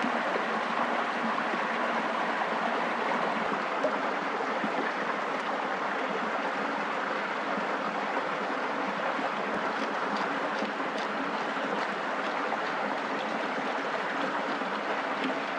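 A steady rushing noise, with faint small ticks in the second half.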